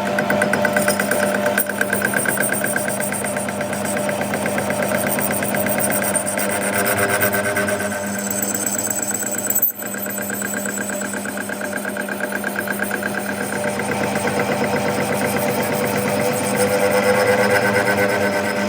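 A machine running steadily with a fast, even pulse, broken by a brief drop about halfway through.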